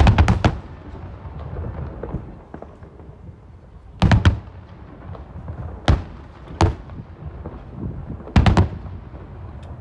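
Aerial fireworks bursting: a quick cluster of sharp bangs at the start, then single and paired bangs every second or two, each trailing off in a rumbling echo.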